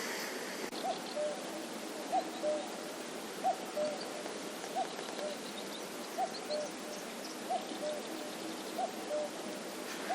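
An animal calling with a two-note call, a short higher note followed by a slightly lower one, repeated evenly about every 1.3 seconds.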